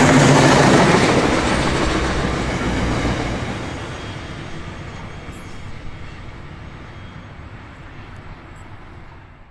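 Steel wheels of a long intermodal freight train's container wagons rolling over the rails. The sound fades steadily as the last wagons pass and draw away.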